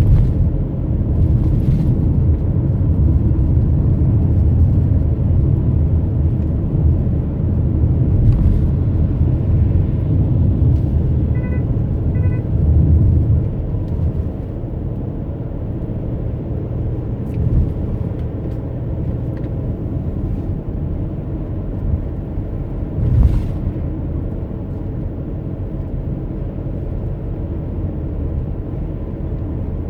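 Steady low rumble of a car's engine and tyres heard from inside the moving car. Two short electronic beeps sound about twelve seconds in, and a single thump comes a little past twenty seconds.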